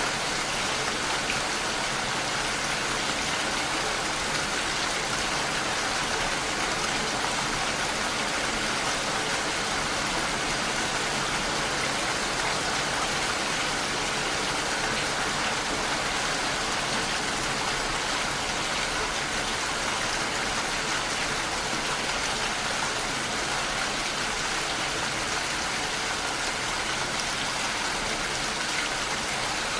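Steady rain falling against a window.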